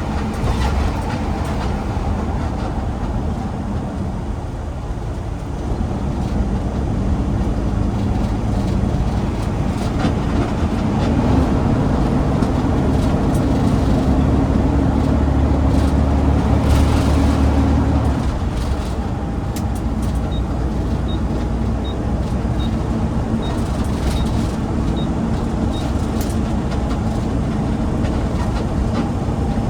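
Garbage truck engine running while driving, with steady road noise. The engine gets louder and stronger through the middle as it pulls harder, then eases off again.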